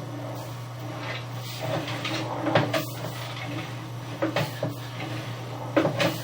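Sewer inspection camera gear being handled: irregular knocks and clatters over a steady low electrical hum.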